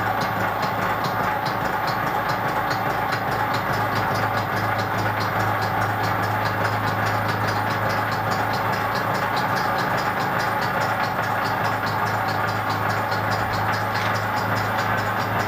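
Milling machine running steadily, its gear cutter cutting teeth into a trial gear blank, with a low motor hum and a fast, even ticking.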